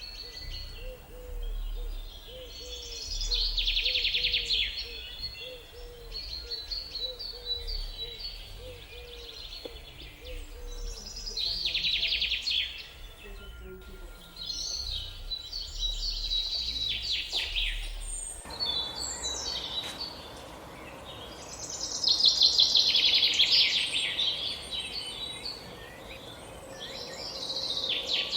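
Wild birds singing, with loud, rapidly trilled song phrases every few seconds over softer high chirps. A lower call repeats about twice a second through the first half. About two-thirds in, a steady rushing noise comes in under the birds.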